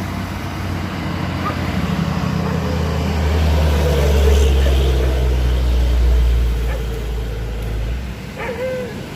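Heavy truck engine labouring up a steep grade, a steady low drone that grows louder for a few seconds in the middle and then eases off.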